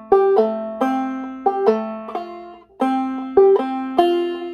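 Clawhammer banjo in G minor tuning, picking single notes over a held F chord. The plucked notes come about twice a second, each ringing and fading into the next.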